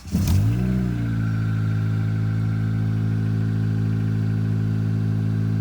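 2005 Acura RSX's K20A3 four-cylinder VTEC engine starting: it catches at once, its revs flare up briefly, then it settles into a steady idle by about a second in. It breathes through an aftermarket header and exhaust that has a small leak at a gasket.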